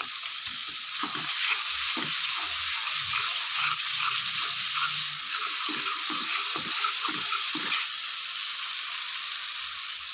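Onion-tomato masala sizzling steadily in hot oil in a metal pot while a metal ladle stirs and scrapes through it, with repeated scrapes and knocks from about one to eight seconds in. This is the bhunai stage, with the spice paste being fried until cooked through.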